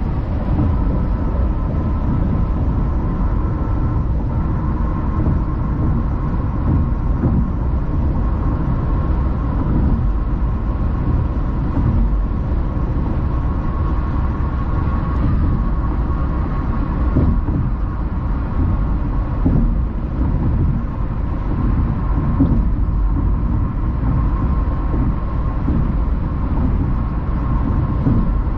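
Car driving along at speed: a steady low road and tyre rumble, with a faint steady whine above it.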